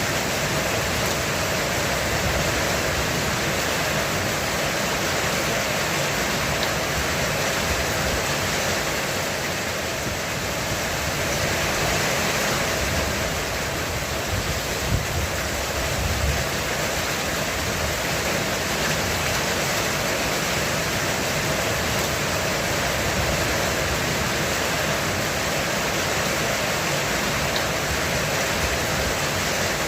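Heavy rain pouring steadily on a roof, a dense, even hiss, with a brief low rumble around the middle.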